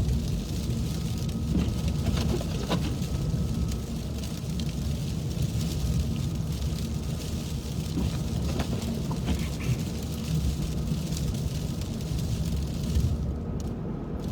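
Car driving at highway speed on a snow-covered road, heard from inside the cabin: a steady low rumble of tyres and engine, with occasional light ticks.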